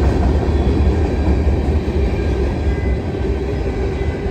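CSX manifest freight train rolling past, its cars rumbling steadily on the rails.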